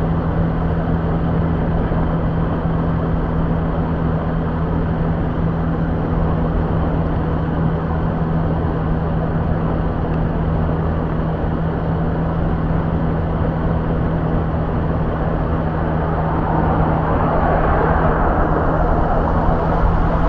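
Motorbike engine running at a steady speed, a constant hum under heavy wind and road noise from riding. About 17 seconds in a louder rush of noise swells up.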